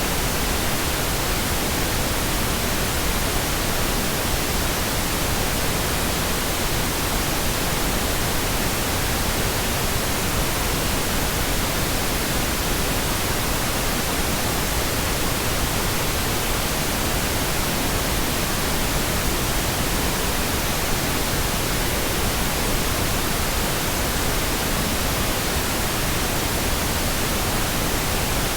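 Steady pink noise, an even hiss spread across the whole range with a fuller low end than white noise, unchanging in level.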